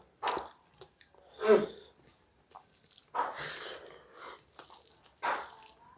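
Close-miked eating sounds: mouthfuls of rice and vegetable curry being chewed, in separate bursts a second or so apart, with a longer, noisier stretch about halfway.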